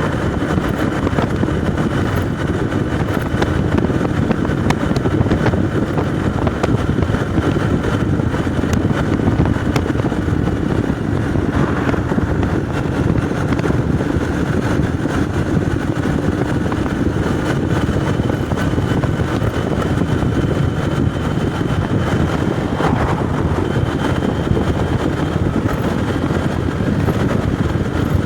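Motorcycle engine running at a steady cruise while riding, with steady road noise and no change in speed.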